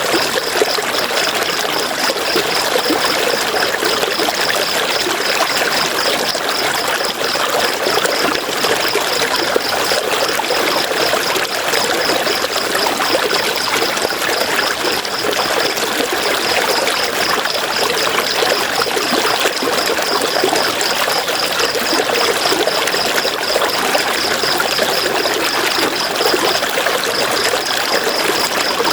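River water flowing steadily over stones, an even rushing and trickling. A high, evenly pulsing chirp runs over it, breaking off briefly twice.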